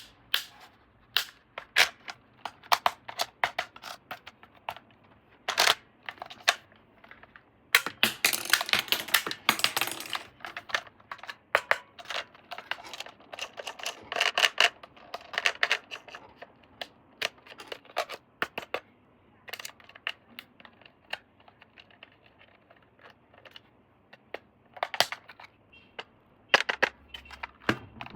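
Irregular sharp clicks and clatters of hard plastic parts being handled, with a dense rattling stretch about eight to ten seconds in.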